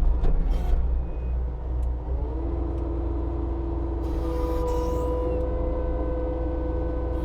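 Skid steer diesel engine running steadily under a stump grinder attachment. About two seconds in, a whine rises and then holds steady as the grinder spins up, and a second, higher whine joins about four seconds in.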